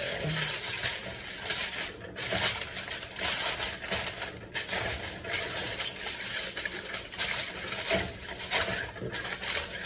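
Irregular rustling and crinkling, the sound of material being handled and crumpled, coming in quick uneven bursts throughout.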